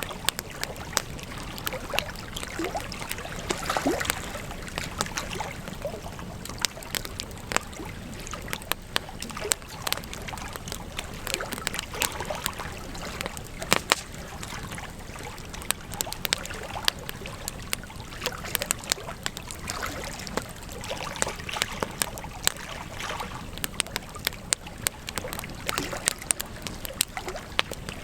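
Campfire burning, the wood crackling and popping irregularly over a steady hiss of flames, with one louder pop about halfway through.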